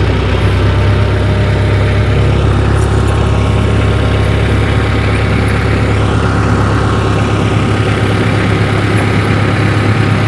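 Tractor engine running steadily as the tractor creeps forward to pull a snow chain over the tire, with a few faint clicks.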